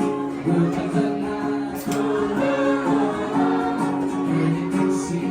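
Live music: a singer performing with guitar accompaniment.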